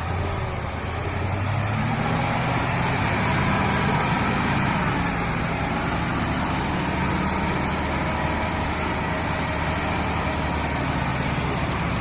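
Enduro motorcycle engine running steadily, its pitch rising slightly in the first few seconds and then holding.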